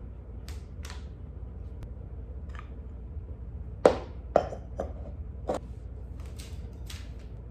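Scattered light clicks and knocks of small objects being handled, irregular and a second or so apart, the sharpest about four seconds in, over a steady low hum.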